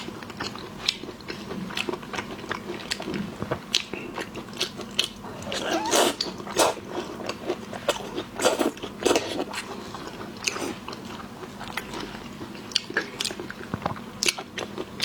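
Close-miked eating sounds: a person biting and chewing food, with irregular wet clicks and crunches, heaviest about six seconds in and again around nine seconds.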